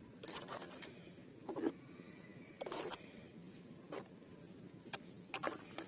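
Muddy plastic toy vehicles being handled and gathered up: scattered light knocks, clicks and short scrapes, about eight in all.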